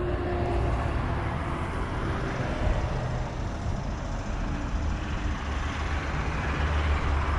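Steady road traffic noise: a low rumble with a hiss above it, and no sudden events.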